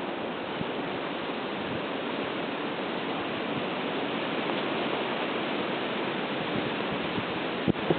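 Blizzard wind blowing steadily, a constant rushing hiss with no letup, and a single brief tap near the end.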